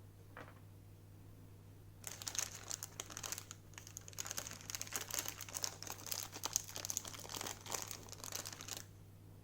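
Plastic packaging crinkling as it is handled, a dense crackling that starts about two seconds in and stops shortly before the end.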